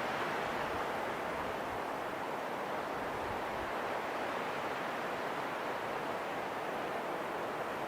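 Steady rushing wind, an even hiss without gusts or breaks.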